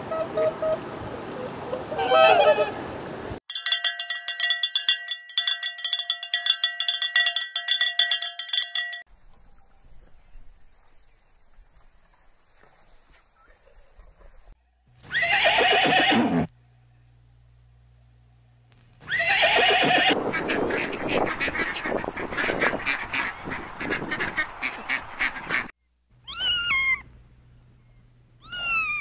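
A string of separate animal calls with pauses between them, including a long, loud, trembling call typical of a horse neighing, and two short falling calls near the end.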